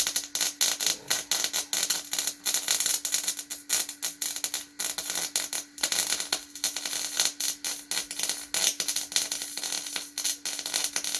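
Electric arc welding on steel: a dense, irregular crackle from the arc, over a steady low hum.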